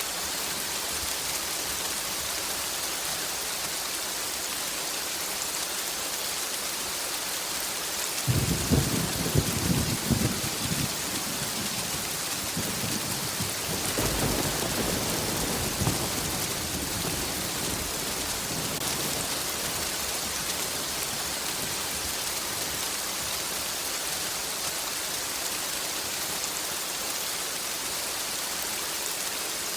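Steady heavy rain, with thunder breaking in about a quarter of the way through: a sudden crackling clap that rumbles for a few seconds, then a second, softer rumble a few seconds later that fades away.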